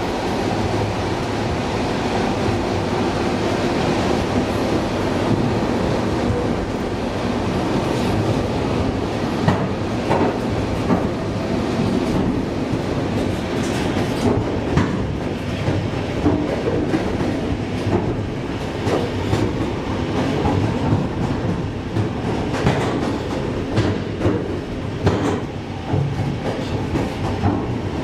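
ED4M electric multiple unit running along the line, heard from inside the car's vestibule: a steady rumble with the clickety-clack of wheels over rail joints, the clicks coming more often from about nine seconds in.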